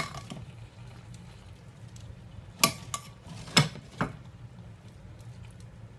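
A utensil clinking and knocking against a cast iron pan, four or five separate knocks, as chicken thighs are put back in and pressed down into the tomatoes, over a steady low hum.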